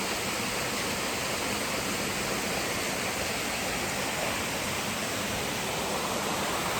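Waterfall crashing into a pool, a steady, loud, unbroken rush of water.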